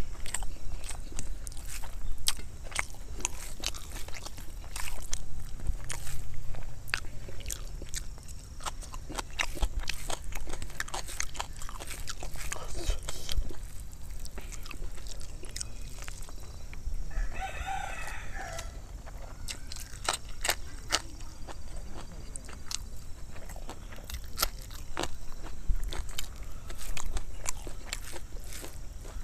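Close-up eating sounds: chewing egg curry and rice, with frequent wet mouth clicks and smacks. About seventeen seconds in, a rooster crows once, for a second or two.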